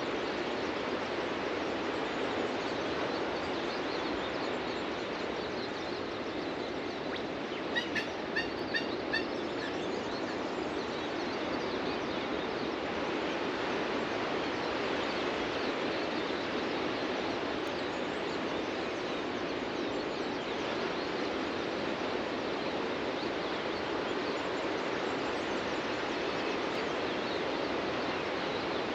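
Steady surf of ocean waves breaking on a beach. About a third of the way in, a bird gives a quick run of about five short calls.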